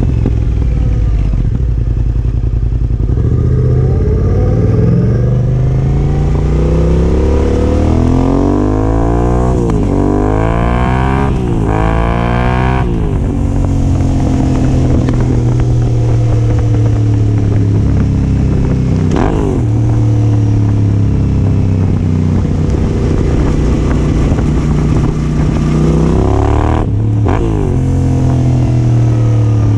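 Yamaha Ténéré 700's parallel-twin engine through a Yoshimura R-12 exhaust while riding. The revs climb and drop back through a quick run of upshifts about ten seconds in, then the engine holds a fairly steady cruise.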